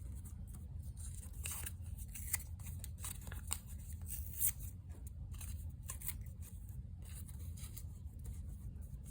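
Paper scraps being handled and layered: a scatter of short, crisp rustles and clicks over a low steady hum.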